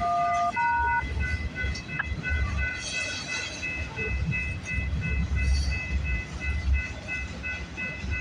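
CN freight train rolling past with a steady low rumble, over a fast, regular ringing in high tones, with a few stepped pitched notes in the first second.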